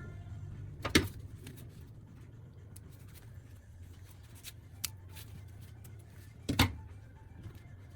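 Handling noises: two sharp knocks about five and a half seconds apart, with light clicks and ticks between them, over a low steady hum.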